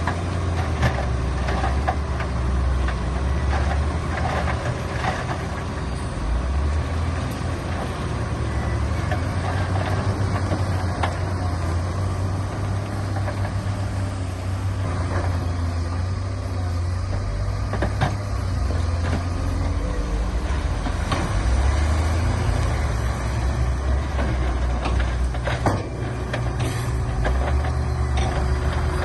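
Heavy diesel earthmoving machinery running steadily, a deep engine rumble, with a few sharp knocks scattered through it.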